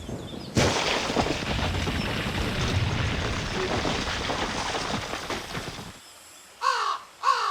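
A cartoon sound effect of a rumbling crash or blast: noise starting suddenly about half a second in and fading out after about five seconds. It is followed near the end by two short, falling cartoon character cries.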